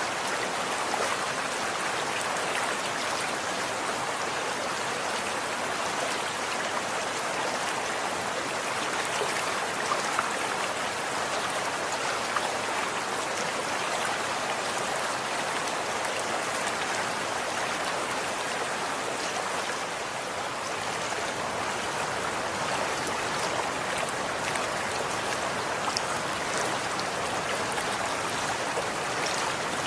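Running water flowing steadily, a stream's even rush with small splashes and drips throughout.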